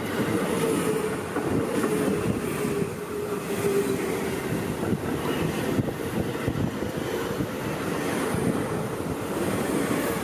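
Seibu Ikebukuro Line electric train passing close at speed: a steady rumble of steel wheels on the rails, with a faint humming tone over it.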